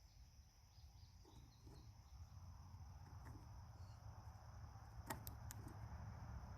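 Faint outdoor ambience: a low wind-like rumble that grows a couple of seconds in under a steady high thin hiss, with a few faint high chirps early on. About five seconds in come three sharp clicks in quick succession.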